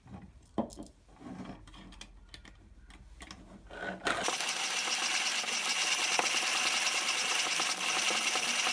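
Faint clicks and knocks, then from about four seconds in a 1950s Armin Trösser manual conical burr coffee grinder grinding coffee beans at its finest setting. The burrs make a steady, dense crunching rasp as the handle is turned.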